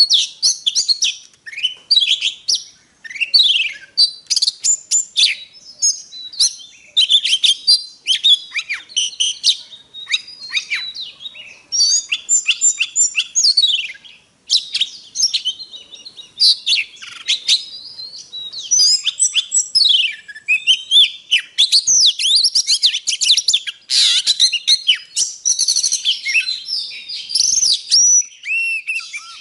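Oriental magpie-robin singing a long, fast, varied song of whistled glides and chirps with barely a pause.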